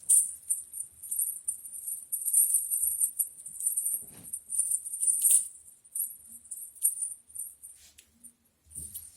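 Small bells on a cat toy jingling in quick, uneven shakes, thinning out to a few scattered jingles near the end.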